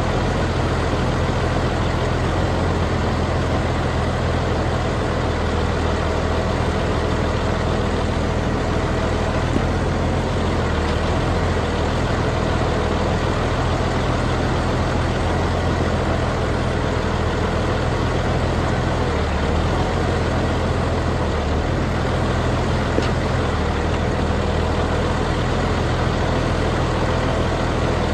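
Heavy diesel engine of log-handling equipment running steadily at a constant speed, with two faint knocks over it.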